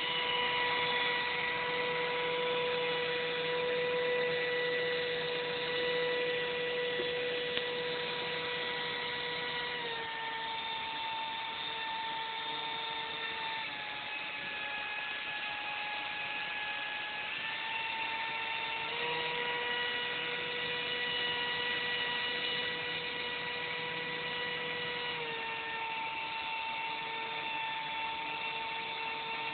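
Small electric motors spinning propellers, running with a steady whine over a rushing hiss. The whine drops slightly in pitch about ten seconds in, dips again a few seconds later, and rises back before falling once more near the end, as the motor speed is adjusted.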